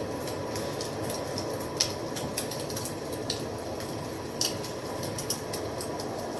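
Wood fire crackling: a steady low rush of burning with sharp, irregular pops and snaps, the loudest about two seconds in.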